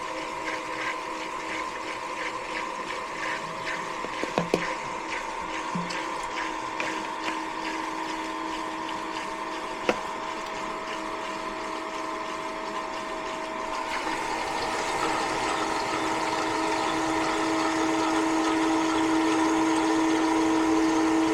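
Condensate pump motor running and pumping water down, a steady hum with a rattle, growing louder in the second half. The pump sounds bad, which the tech takes for an old, probably clogged pump.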